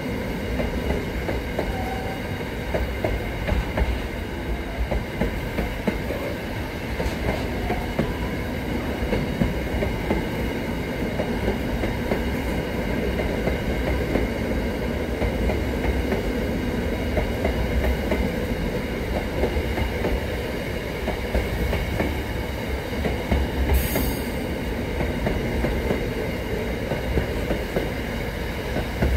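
Freight train wagons rolling past close by: a steady rumble of steel wheels on rail, with a faint steady high-pitched ringing. Near the end there is a single sharp clank.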